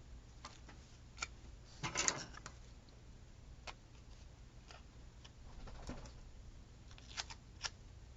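Light, sparse clicks of scissors snipping a sheet of paper stickers, with a short crinkle of the sticker paper being handled about two seconds in. A faint steady hum lies underneath.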